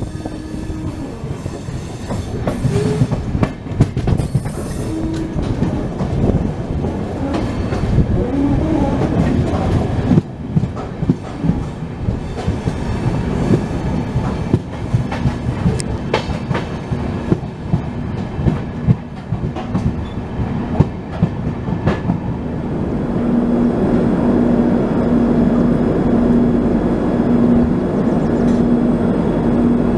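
Passenger express train running, heard from aboard: the wheels clatter with many clicks over the rail joints, then about two-thirds of the way through the sound turns into a steadier, louder rumble with a low hum pulsing about once a second.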